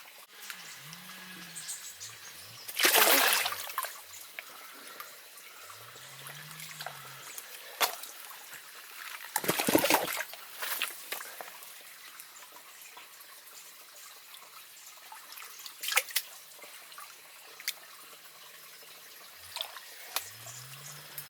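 Water trickling steadily, with two louder rushes of water about seven seconds apart and a few sharp clicks. Several short, low, rising-and-falling hums sound through it.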